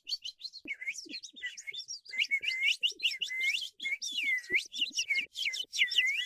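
Birds chirping and singing in a morning chorus: a quick run of short repeated chirps, then, from about a second in, many overlapping swooping calls.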